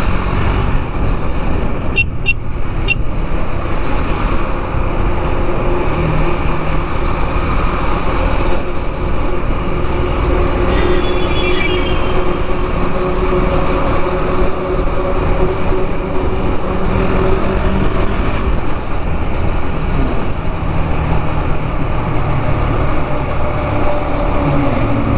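KTM Duke 390's single-cylinder engine running under way in heavy city traffic, with steady wind rumble on a helmet-mounted camera mic and other vehicles around.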